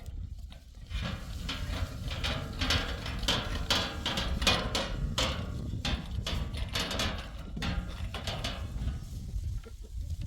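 A series of irregular sharp knocks or taps, several a second, over a steady low rumble.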